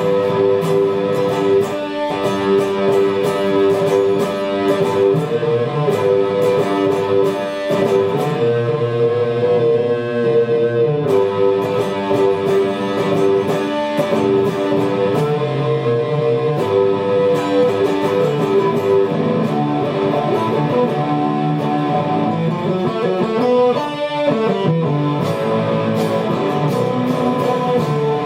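Guitar music: held, ringing chords that change every few seconds.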